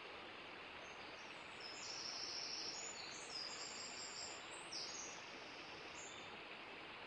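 Faint steady outdoor hiss, with a bird singing a run of short, high notes from about a second in until about six seconds in.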